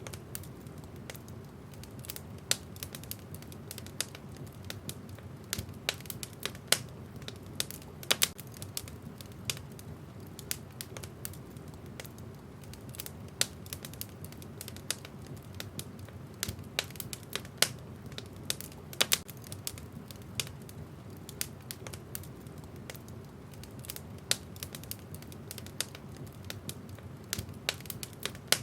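Wood fire burning in a fireplace: a steady low rumble of the flames with frequent sharp, irregular crackles and pops of the burning logs.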